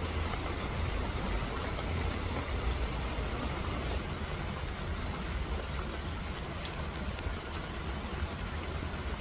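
Steady rain falling, an even hiss with a steady low rumble underneath and a few sharper drop ticks about two-thirds of the way through.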